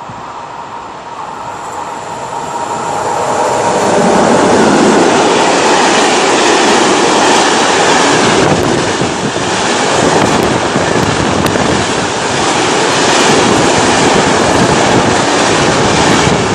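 Train approaching and passing close by at speed. Its noise builds over the first few seconds to a loud, steady rush of wheels on rail, then cuts off abruptly.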